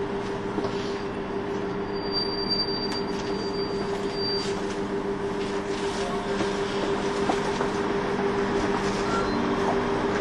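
KiHa 25 diesel railcar under way, with a steady low engine drone over the running noise of the wheels on the rails. About two seconds in, a thin high wheel squeal lasts for roughly two seconds.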